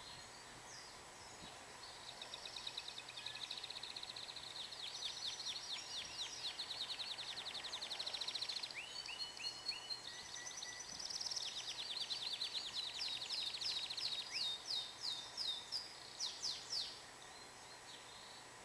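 Domestic canary singing one long song made of fast trills at shifting pitches, starting about two seconds in and ending with a string of separate louder notes.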